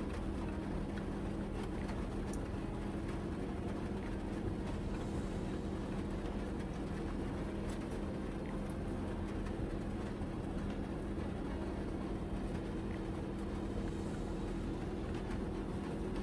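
Heavy rain on the roof of a kei van, heard from inside the cabin as a steady rush with scattered light ticks, over a steady low hum.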